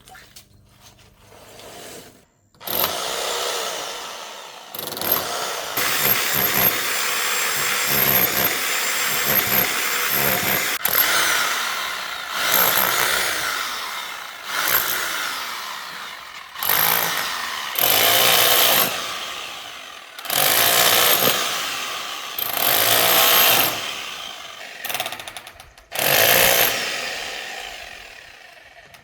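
Handheld power tool switched on about two and a half seconds in, then run in repeated bursts. The motor spins up sharply each time and winds down between bursts, which come every two to three seconds near the end.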